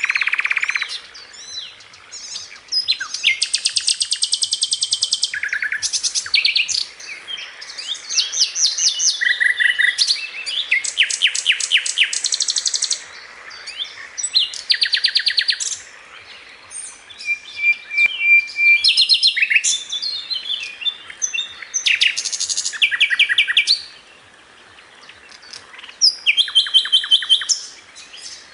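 Sikatan londo, a flycatcher, singing in bursts of rapid-fire repeated sharp notes ('tembakan'), mixed with short whistled and twittering phrases and brief pauses between them.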